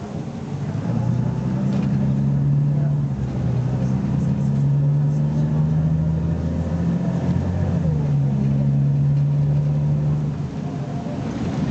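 BMC Belde 220-SLF city bus engine accelerating hard under kickdown. The note swells about a second in and climbs, breaks and drops back once partway through as the automatic gearbox changes gear, then climbs again before easing off near the end.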